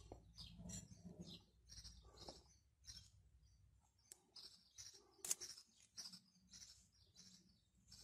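Faint, repeated short chirps of small birds, with light clicks and rustling from a multimeter test lead being handled; one sharper click about five seconds in.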